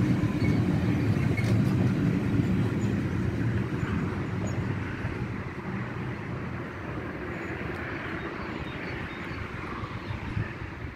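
Freight train's last covered sliding-wall wagons rolling past on the rails with a low rumble, fading steadily as the end of the train pulls away.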